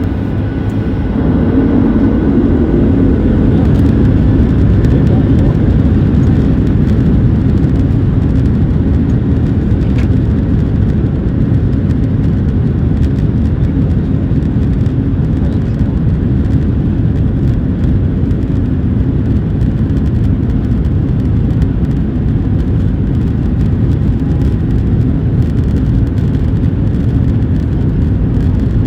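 Boeing 737-800's CFM56-7B turbofan engines at takeoff power, with a dense low rumble that builds over the first couple of seconds and then holds steady.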